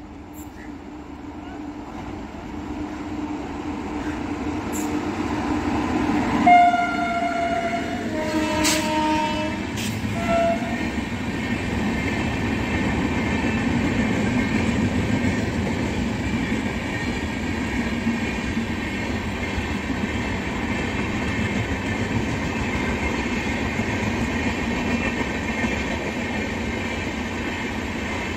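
Navjeevan Express passing through a station: the rumble grows louder as it approaches, and the locomotive's horn sounds three times about a quarter of the way in, a long blast, a shorter one and a brief toot. After that comes a steady rumble of the coaches rolling past.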